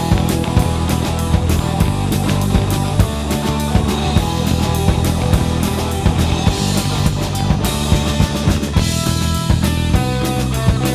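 A rock band playing live, with drum kit and guitar, and no singing.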